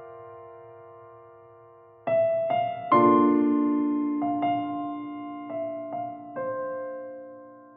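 Background music: slow, sparse piano. A held chord fades away, then single notes and a fuller chord are struck about two seconds in, each left to ring and die away.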